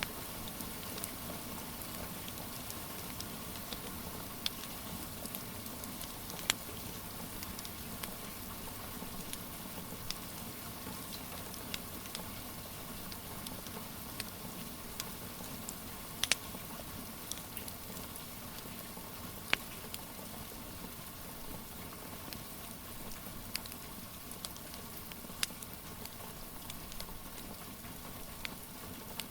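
Steady hiss of rain with the irregular pops and snaps of a crackling wood fire. A few sharper pops stand out, about six seconds in, around sixteen seconds and near twenty seconds.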